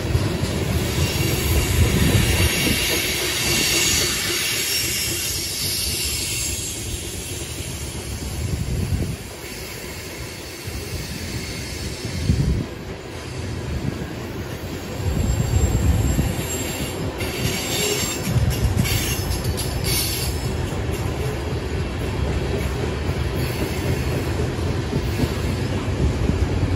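Freight train covered hopper cars rolling past on steel wheels, a steady rolling noise with recurring low thumps as the wheel sets go by. Wheel squeal rings out over the first few seconds and again in short bursts a little past the middle.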